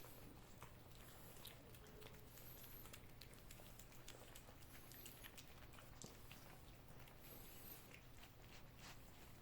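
Cats eating a lickable treat, faint irregular wet smacking and licking clicks. A faint steady hum lies underneath.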